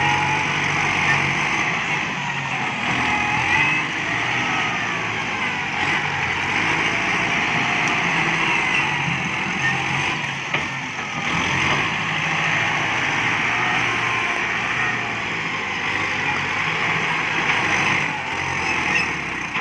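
Kubota MU5702 tractor's diesel engine running steadily under load, with a steady hiss over it.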